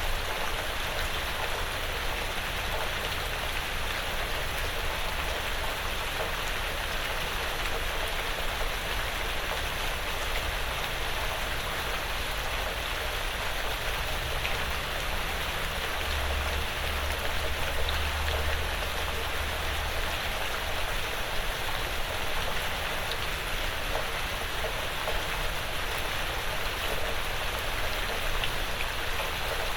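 Light, steady rain falling on a porch roof and the surrounding woods, an even patter with scattered faint drips.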